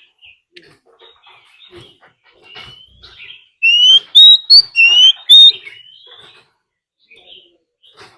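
Oriental magpie-robin singing a fighting song, with a quick run of about five loud rising whistles around the middle among fainter chirps and scratchy notes.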